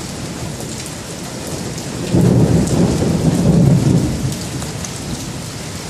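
Steady rain falling, with a sudden low rumble of thunder about two seconds in that lasts roughly two seconds and then fades.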